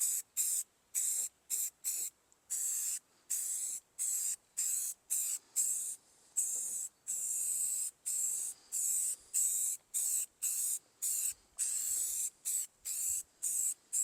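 Rust-Oleum aerosol spray paint can hissing in many short bursts, about two a second, with a few held longer, as the paint is laid on as a filler.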